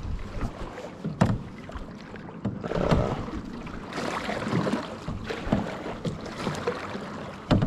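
Kayak paddle strokes in lake water, uneven swells of splashing and dripping, with two sharp knocks about a second in and near the end, typical of the paddle shaft striking the kayak's hull.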